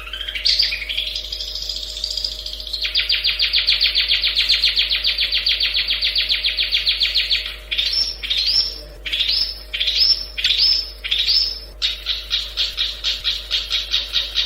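Long-tailed shrike (cendet) singing: a rising note, then a long, rapid run of repeated chattering notes. About halfway through the song breaks into separate down-slurred notes, then returns to the fast run near the end.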